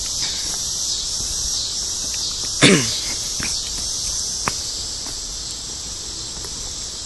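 Dense evening insect chorus, a steady high-pitched drone. About two and a half seconds in, a brief sound falling in pitch cuts across it, and a few faint ticks sound here and there.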